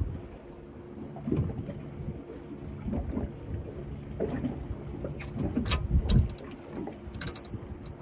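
Handling noises on a small boat: irregular low bumps and knocks, with a few sharp metallic clicks that ring briefly in the second half, over a low rumble of wind and water.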